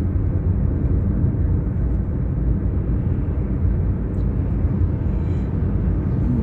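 Car being driven, heard from inside the cabin: a steady low rumble of engine and tyre road noise.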